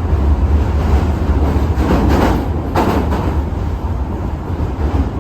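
Running noise inside an Osaka Metro Midosuji Line train car: a steady, loud low rumble of wheels on rail, with two brief swells of rushing noise about two and three seconds in.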